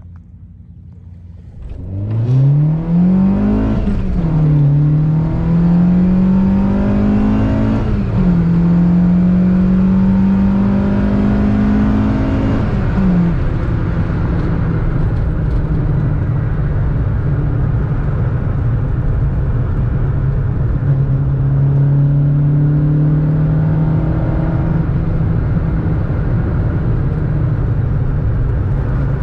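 VW MK2 Golf 16-valve four-cylinder on motorcycle carburettors accelerating hard at wide-open throttle: the engine note comes in sharply about two seconds in and climbs, dropping at upshifts about four, eight and thirteen seconds in, then settles to a steady cruise.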